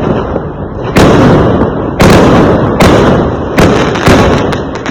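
Fireworks exploding: five loud, sharp bangs in quick succession, about one a second, each trailing off in a rumbling echo.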